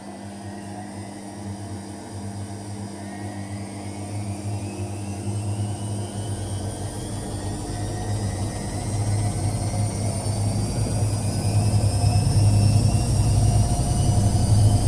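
Zanussi Lindo 100 washing machine speeding up into its spin: the motor's whine rises steadily in pitch and the machine grows louder throughout, over a steady low hum. It is one of the strange sounds this machine is making.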